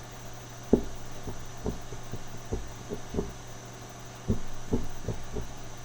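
Fireplace crackling: irregular soft pops, about a dozen, over a steady low hum.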